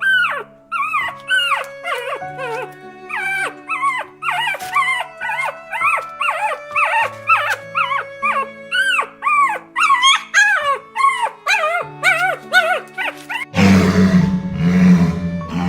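Puppies whimpering and yipping in quick, high-pitched calls that rise and fall, over background music with long held notes. About two seconds before the end, a loud, harsh, rough sound takes over.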